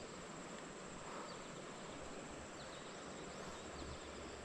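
Faint outdoor creek-side ambience: a steady high-pitched insect trill, with a few short, quick chirps over it.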